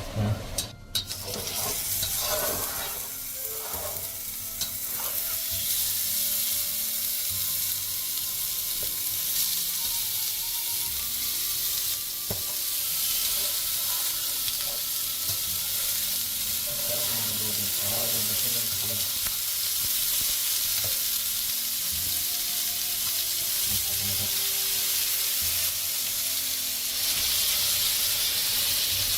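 Food frying with a steady sizzle that grows louder about six seconds in and again near the end, with a few sharp knocks right at the start.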